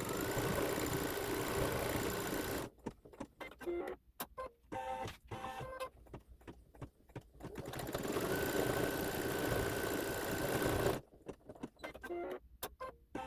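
Embroidery machine stitching out a design: two stretches of steady whirring, each starting with a rising whine as the machine speeds up, with a choppy few seconds of short clicks and stops between them and again near the end.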